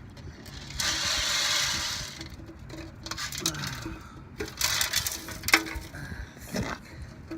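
Steel BBs and flakes of rust and tank lining being handled in a filter: about a second of rustling, then scattered light metallic clicks and knocks.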